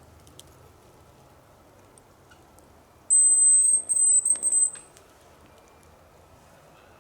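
A hazel grouse lure whistled close by: a loud, very high, thin whistle about three seconds in, first a held note and then a broken run of short notes, lasting under two seconds.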